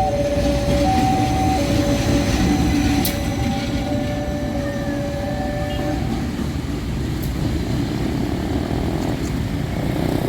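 Train running past on the rails with a steady rumble. Over it, a two-tone warning signal alternates between a higher and a lower tone, each held for under a second, and stops about six seconds in.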